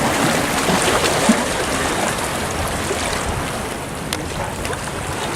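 Steady rush of wind and surf at the water's edge, with a faint click about four seconds in.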